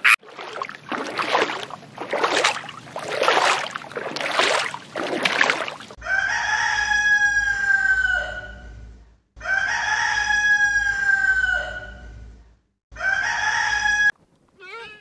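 Indian peafowl (peacock) giving three loud, drawn-out calls about six seconds in, each a steady high note that falls away at the end, the last one short. Before them comes a run of rough noisy bursts, about one a second, of unclear source.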